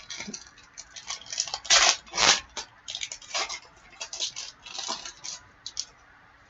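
Trading card pack being opened and its cards handled: an irregular run of short crinkling, rustling and sliding noises that stops near the end.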